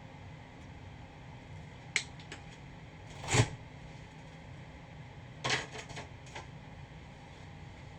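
A few sharp clicks and knocks of objects being handled, the loudest about three and a half seconds in and a small cluster near the middle, over a steady low hum.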